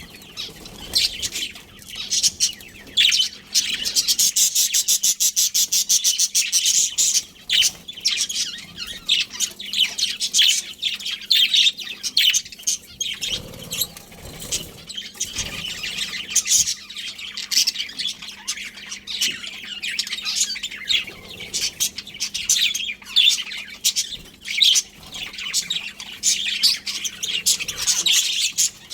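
A colony of budgerigars chattering, many birds at once giving a dense, continuous run of rapid high chirps and warbles.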